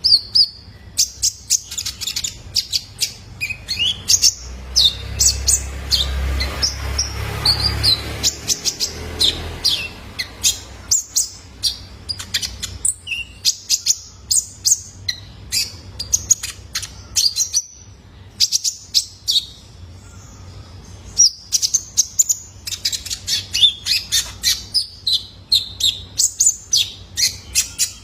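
Young male konin (kolibri ninja) sunbird chirping in fast, sharp, high-pitched notes and short trills with hardly a pause. A low rumble sits under it from a few seconds in until about a third of the way through.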